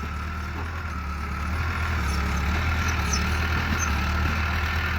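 Bulldozer's diesel engine running steadily with a deep hum, getting a little louder about two seconds in.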